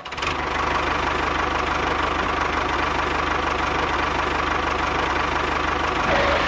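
An engine idling steadily with a fast, even knock, a little louder near the end.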